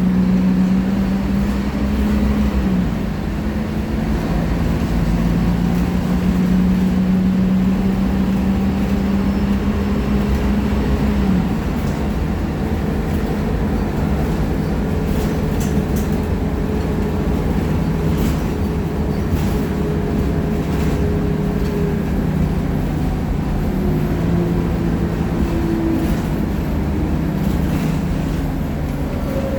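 Scania K310IA engine of a Caio Millennium BRT articulated bus under way. Its pitch climbs as the bus accelerates and drops at gear changes about three and eleven seconds in, then it runs steadier and lower.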